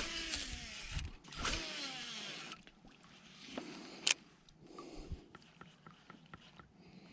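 Fishing reel spool whirring during a cast, its pitch falling as it slows over about two and a half seconds, then a sharp click about four seconds in and light scattered ticks from the reel.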